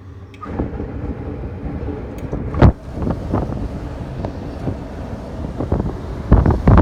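Typhoon-force wind buffeting the microphone in a continuous low rumble, with a sharp gust about 2.7 s in and a stronger surge of gusts near the end.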